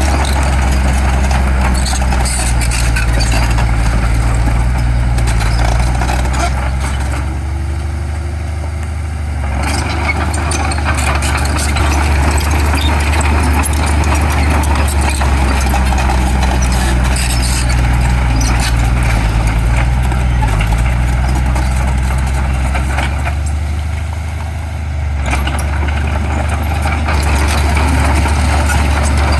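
Heavy diesel engine of earthmoving machinery running steadily, easing off twice for a couple of seconds before picking up again.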